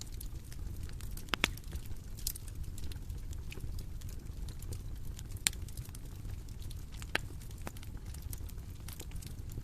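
Bonfire crackling: scattered sharp pops, a few louder than the rest, over a steady low rumble.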